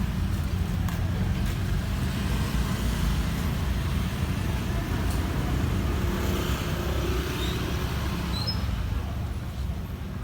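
Street traffic noise, a steady low rumble of passing vehicles, with a few faint, short high chirps near the end.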